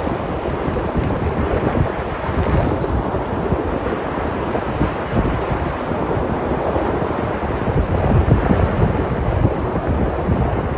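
Sea surf washing in and breaking, a continuous rushing noise with a low rumble, swelling a little near the end.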